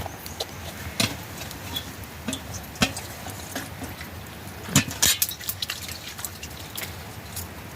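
Scattered clinks and knocks of kitchen pots, dishes and utensils, the loudest about a second in and again near five seconds, over a steady hiss.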